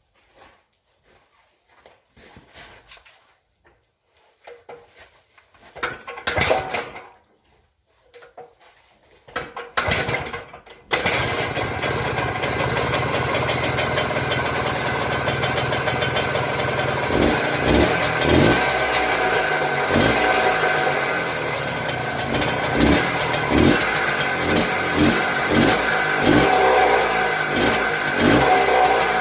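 Single-cylinder two-stroke Izh Planeta Sport motorcycle engine being started: a few short bursts of sound, then it catches suddenly about eleven seconds in and keeps running, with the throttle blipped repeatedly in the second half.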